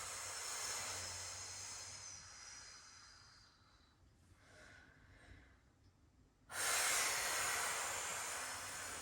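A woman breathing out long and hard through the mouth, paced with a slow floor exercise. There are two long exhales, the second starting suddenly about two-thirds of the way in, with a faint intake of breath between them.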